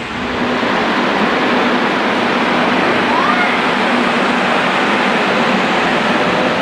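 Korail electric commuter train running past close by, a loud steady rush of wheels on rail with a faint hum under it and a short rising squeal about three seconds in.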